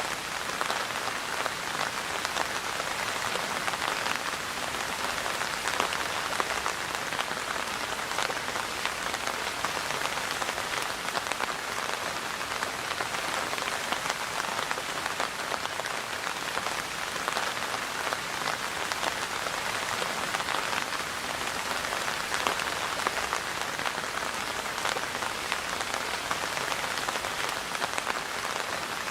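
Steady rain falling on a surface, an even patter of many individual drops.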